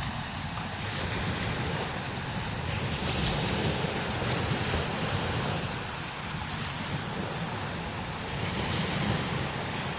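Strong desert wind blowing: a steady rushing with a low rumble, swelling louder about three seconds in and again near the end.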